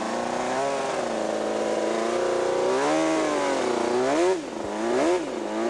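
Honda NR500's four-stroke V4 racing engine running and being revved, its pitch rising and falling several times, with two quick blips about four and five seconds in before it settles.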